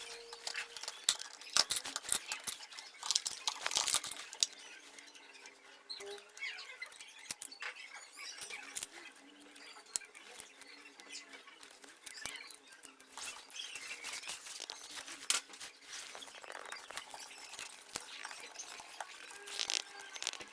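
Hands working on a small drone's parts: irregular clicks, taps and rustling of small plastic and electronic pieces, busiest in the first few seconds and again near the end.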